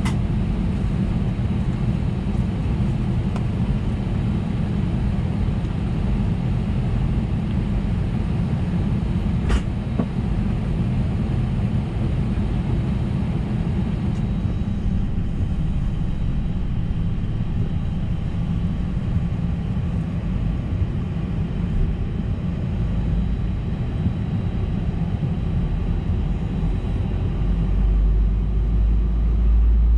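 Steady low rumble inside the cabin of an Airbus A320neo being pushed back from the stand, with a single click about ten seconds in. A deeper rumble builds near the end.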